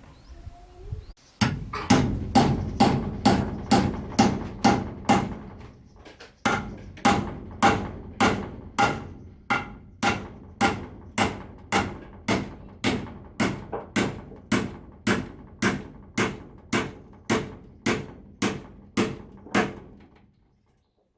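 Hammer blows struck in a steady rhythm, about two to three a second, each a sharp ringing knock, with a brief pause about six seconds in.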